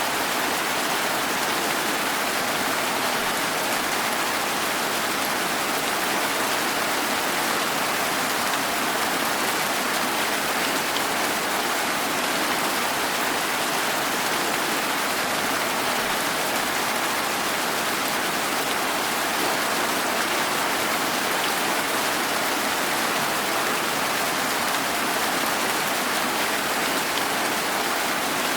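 Steady rain falling, an even hiss without distinct drops or pauses.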